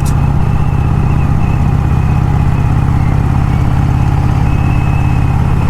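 1951 Vincent Rapide's 998 cc V-twin engine running steadily as the motorcycle rides along at a constant pace.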